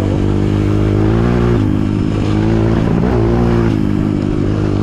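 Trail motorcycle engine running under throttle while riding, its pitch dropping and rising a few times as the throttle changes.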